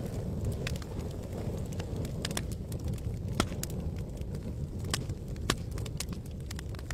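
Wood campfire crackling: sharp pops and snaps at irregular intervals over a steady low rumble.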